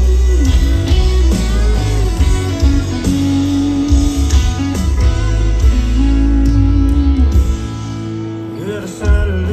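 Live country band playing an instrumental passage led by guitar over heavy bass, with no singing.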